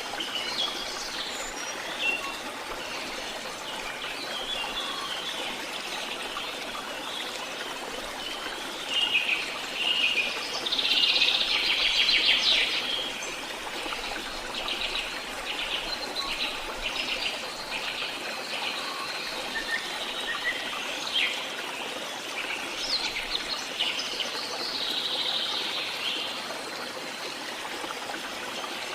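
Songbirds singing and chirping over the steady rush of a stream, with a loud rapid trill about ten seconds in that lasts a few seconds.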